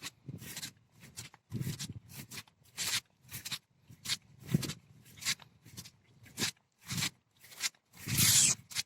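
Footsteps of a person walking, about two steps a second, each a short scuff with a soft thud, ending in a longer, louder scuff.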